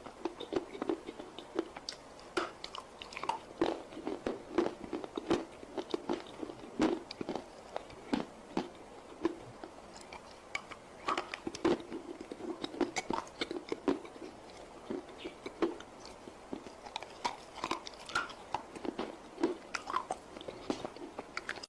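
Dry nakumatt clay being bitten and chewed close to the microphone: an irregular run of sharp, crackling crunches.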